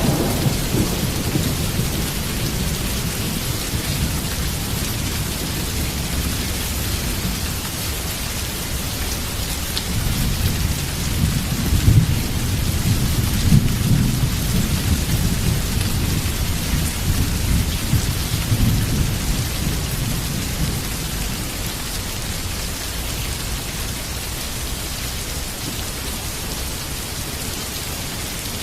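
Heavy rain falling steadily, with rolling thunder. The thunder rumbles at the start, swells again about ten seconds in with its loudest peaks near the middle, then dies away, leaving steady rain.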